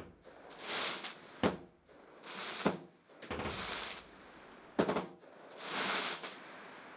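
Fireworks going off: three sharp bangs spaced a second or two apart, between several spells of hissing sparkle under a second long each.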